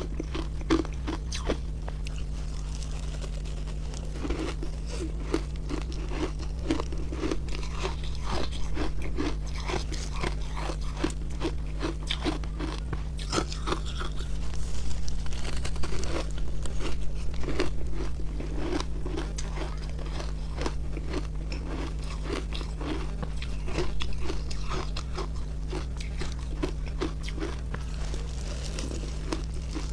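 Someone biting and chewing refrozen ice made with milk and matcha powder: dense, irregular crunching, louder for a few seconds around the middle. A steady low hum runs underneath.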